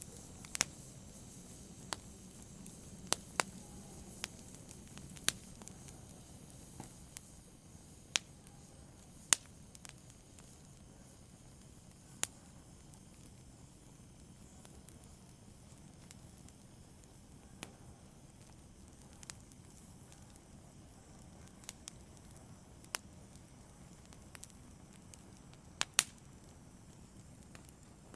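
Wood fire in a fireplace crackling: irregular sharp pops and snaps over a low steady hiss. The loudest pops come about nine seconds in and near the end.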